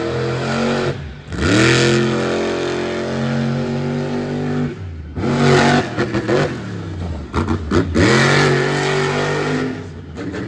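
Monster truck's supercharged V8 engine revving hard in repeated bursts: the pitch sweeps up sharply and holds, dropping off the throttle briefly about a second in, around five seconds in and again around seven seconds in.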